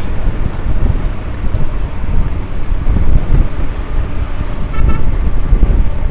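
City traffic heard from a moving motorcycle: a steady low rumble of wind and road noise. A vehicle horn toots briefly about five seconds in.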